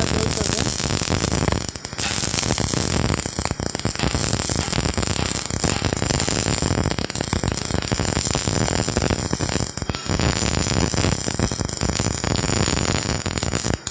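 MIG welding arc crackling and sizzling steadily, with short breaks about two seconds and ten seconds in where the arc stops.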